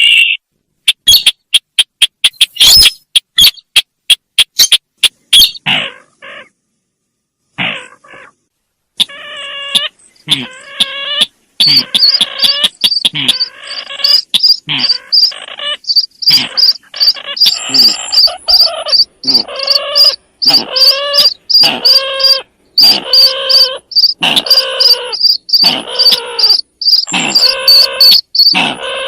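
Sintar bird lure call: a quick series of sharp clicks at first, then from about nine seconds in, harsh calls repeated about once a second, with a rapid high pulsing note running above them from about twelve seconds.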